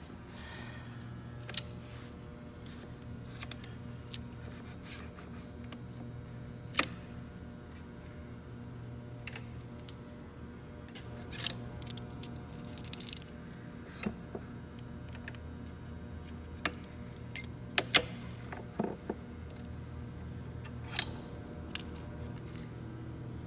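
Irregular metallic clinks and knocks of steel gearbox parts and tools being handled, with the sharpest pair about two-thirds of the way in. A steady electrical hum runs underneath.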